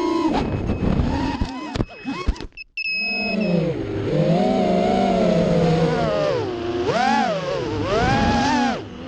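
FPV racing quadcopter's four brushless motors (2205 size, 2300 kv) whining, the pitch rising and falling with the throttle. About two seconds in, the whine cuts out briefly with a few clicks, then comes back and keeps swinging up and down.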